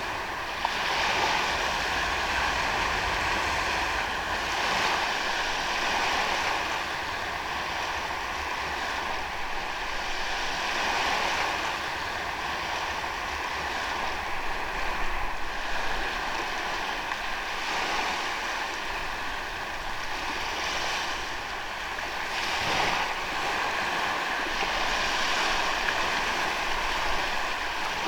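Ocean waves breaking and washing up a sandy beach: a steady surf hiss that swells every few seconds as each wave comes in.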